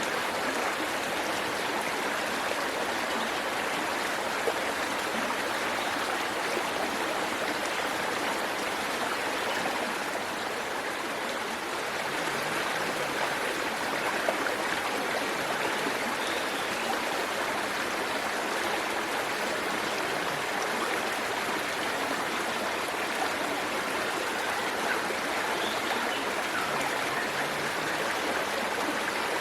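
Waterfall water rushing and splashing steadily, a continuous even hiss.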